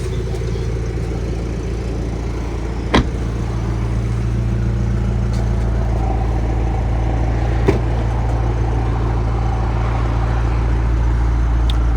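A 2017 BMW 330i's turbocharged four-cylinder engine idling with a steady low hum. Two short sharp clicks come through, about three seconds and nearly eight seconds in.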